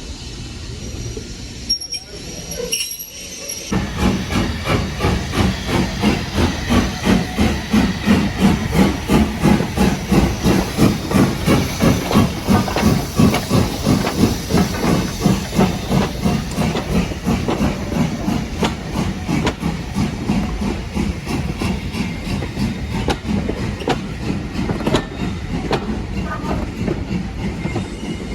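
Steam locomotive working hard past the listener: regular chuffs from the exhaust begin about four seconds in, loudest in the middle and easing toward the end, with a hiss of steam beneath them.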